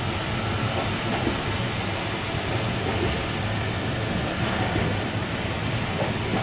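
Passenger train running, heard from inside the carriage: a steady rumble of the wheels on the rails.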